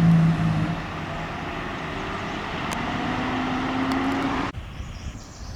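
Fire truck driving past, its engine and road noise steady, with a low horn note around the first second and a faint rising whine later on. It cuts off abruptly about four and a half seconds in.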